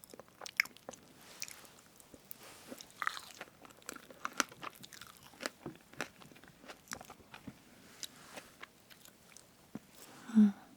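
Close-miked mouth sounds of eating strawberry whipped-cream cake: soft chewing with many small wet, sticky clicks and smacks. There is a brief, louder low sound near the end.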